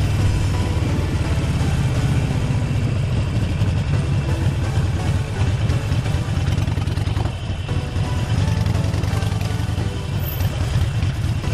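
Harley-Davidson Forty-Eight Sportster's air-cooled V-twin running steadily at low revs, a deep, even rumble.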